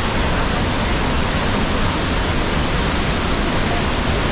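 Steady, loud rush of a large waterfall, the Rhine Falls, with the white-noise roar of the falling water filling every pitch.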